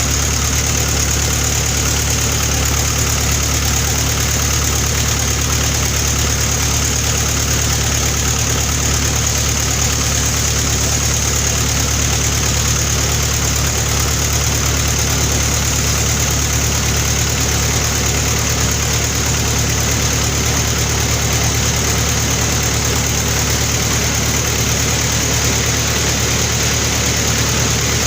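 Sawmill running steadily through a large albasia log: a continuous low engine drone with a high, even whine from the saw, unchanging throughout.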